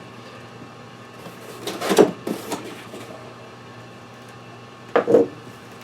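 Cardboard box being cut open with a box cutter: two short bursts of cutting and handling noise, about two seconds in and again near the end.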